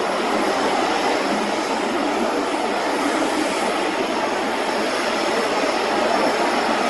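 Jet airliner engines running with a loud, steady noise from a nearby aircraft on the runway or taxiway.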